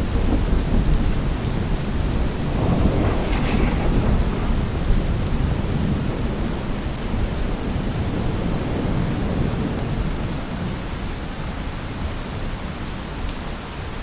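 Steady heavy rain with rolling thunder. The rumble of a loud clap just before dies away, swells again a few seconds in, and then slowly fades under the rain.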